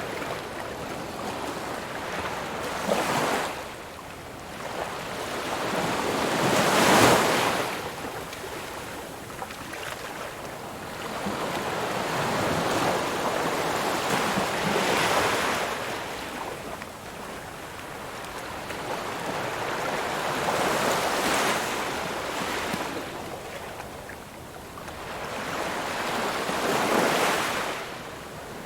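Ocean surf: waves breaking and washing in, rising and falling about five times, one every five to eight seconds, the loudest about seven seconds in.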